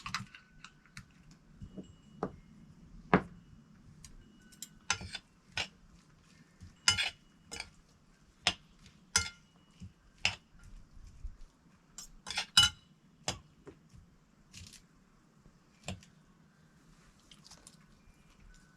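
Irregular sharp clicks and light clinks of small hard objects being handled, a couple of them louder knocks, with no steady rhythm.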